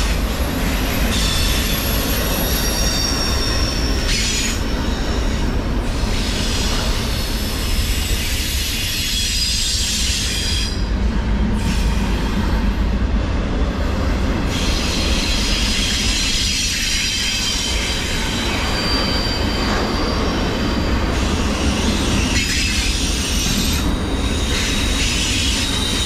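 Double-stack container cars of a freight train rolling past: a steady rumble of steel wheels on rail, with high-pitched wheel squeal coming and going.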